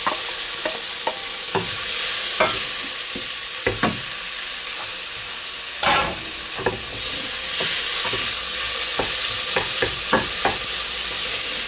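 Diced red peppers, onions and garlic sizzling in oil in a stainless-steel pot, with a wooden spoon scraping and knocking against the pot as they are stirred. At the start the peppers are scraped in from a metal bowl with the spoon.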